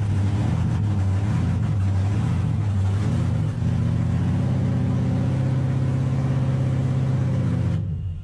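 Loud engine of a custom golf cart running, rising and falling a little over the first few seconds and then holding a steady speed. The sound cuts off abruptly near the end.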